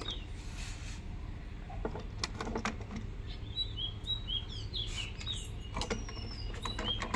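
Small birds chirping in quick runs of short high notes, with a few sharp clicks and knocks in between and a steady low hum underneath.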